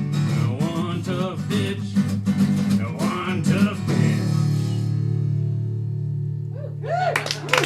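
Acoustic guitar strumming the song's closing bars, then a final chord left ringing for about three seconds. Near the end the audience starts cheering and clapping.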